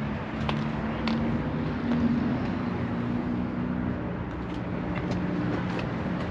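A vehicle engine idling steadily, a low hum that shifts slightly in pitch about four seconds in, with a few faint clicks.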